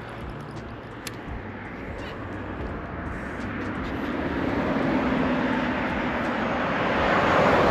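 Engine noise of something passing by, building gradually to its loudest near the end, then starting to fade.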